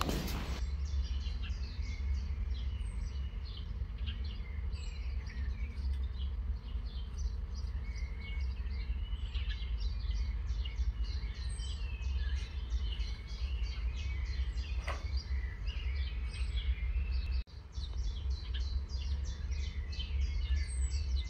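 Small birds chirping and twittering, many quick high calls, over a steady low rumble.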